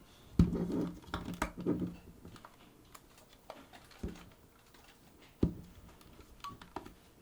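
Irregular light clicks and knocks of small plastic and metal parts being handled during disassembly of a Sony HVR-DR60 recorder, the loudest about half a second in.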